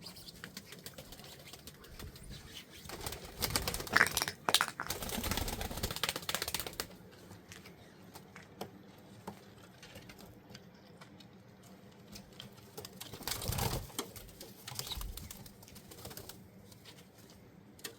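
Newly arrived farm birds calling and moving about, with bursts of rustling noise about three to seven seconds in and again around thirteen seconds.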